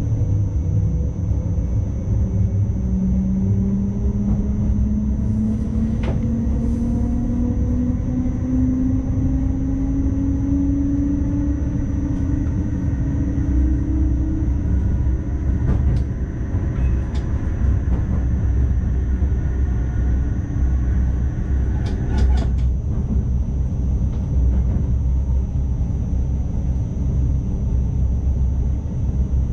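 ICMm intercity electric train running, heard from the driver's cab: a steady low rumble from the running gear, with a whine that climbs slowly in pitch over the first half as the train picks up speed. A few short clicks sound at about 6, 16 and 22 seconds in.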